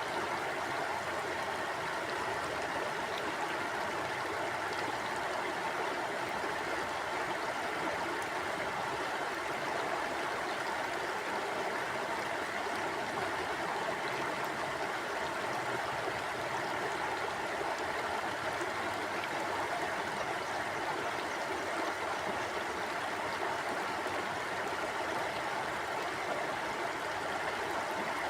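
Mountain stream flowing steadily over rocks, a constant rushing and burbling of water.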